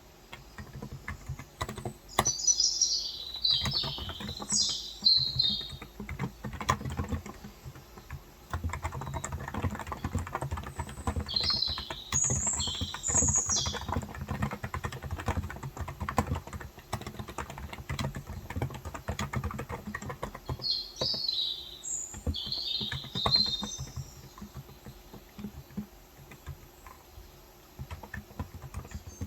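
Typing on a Cox Endeavor electrostatic capacitive (non-contact) tenkeyless keyboard with 35 g switches, in dense runs of keystrokes that thin out near the end. A bird sings high chirping phrases three times, about two, eleven and twenty-one seconds in.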